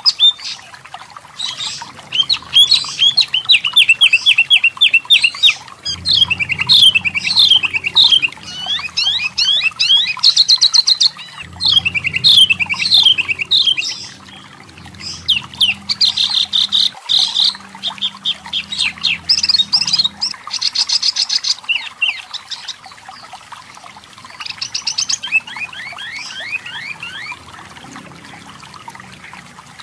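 Pin-striped tit-babbler (wambi) singing: fast runs of repeated chattering notes in bursts, with short pauses between them.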